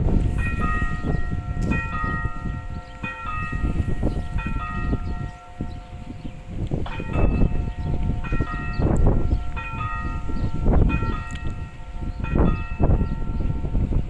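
A bell struck again and again, often two strikes close together, each note ringing on, over a low rumble of wind on the microphone.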